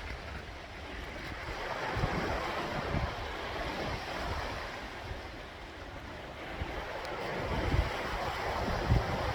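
Sea waves washing in, the noise swelling about two seconds in and again near the end, with wind buffeting the microphone in low thumps.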